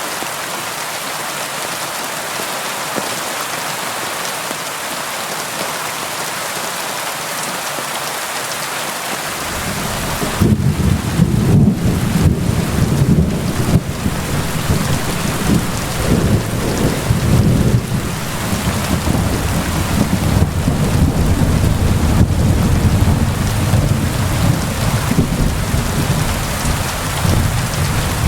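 Steady rain hissing down, joined about ten seconds in by long, low rolling thunder that swells and fades in waves.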